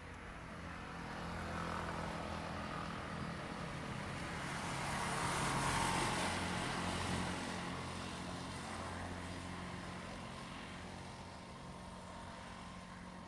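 Diesel train passing by: engine and wheel noise build to a peak about six seconds in, then fade away.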